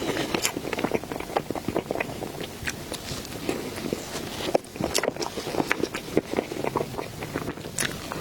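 Close-miked eating sounds: wet chewing, lip smacks and sticky mouth clicks while eating soft cake, in quick irregular succession.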